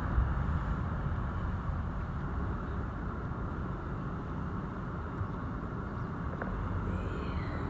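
Steady rumble of a car's engine and tyres heard from inside the cabin while driving slowly.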